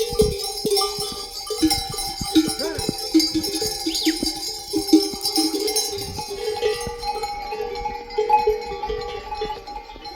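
Bells on a flock of sheep and goats clanking and ringing continuously as the animals move, many overlapping tones with frequent knocks.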